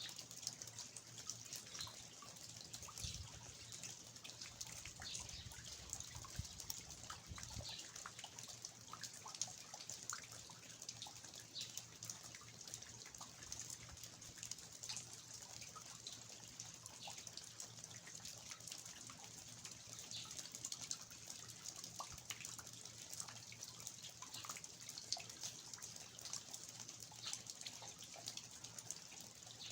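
Steady rain with water dripping from the eaves (낙숫물): many separate drops ticking over a soft, even hiss.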